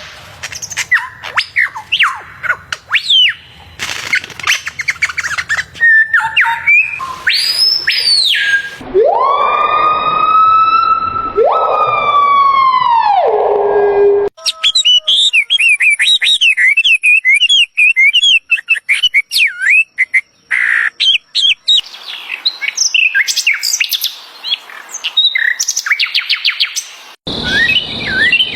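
A run of different bird calls cut one after another: short chirps and whistles, then two long calls a few seconds in the middle that rise, hold and fall like a siren, followed by fast wavering chatter and more chirps.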